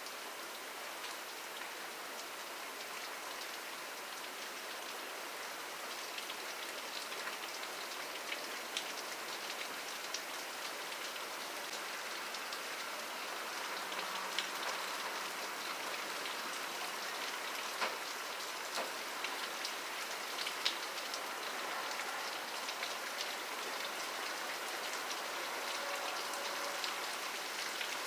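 Steady rain falling: a continuous hiss of rain on a surface with scattered sharper drop taps, growing slightly louder toward the end.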